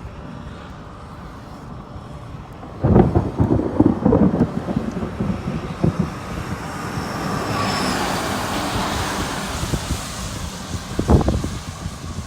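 Storm wind buffeting the microphone in heavy gusts about three seconds in and again near the end, over a low steady rumble, with a rising rush of wind or rain in between.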